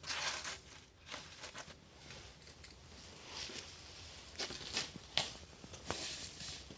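Kindling and paper just lit in the firebox of a newly built fireplace, catching and crackling irregularly, with a few sharper snaps around the middle.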